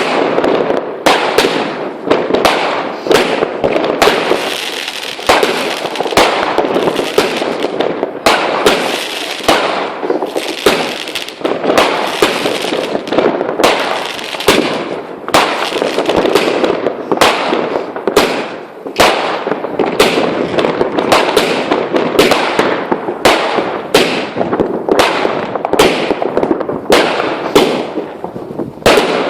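Fireworks going off: a rapid, unbroken string of sharp bangs, several a second, over constant crackling.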